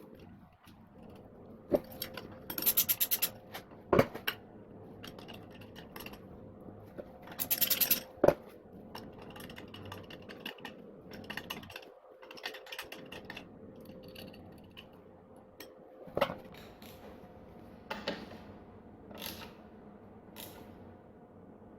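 Hand tools and metal parts being handled during engine assembly: two short runs of rapid clicking, a few sharp knocks, and light scraping, over a faint steady hum.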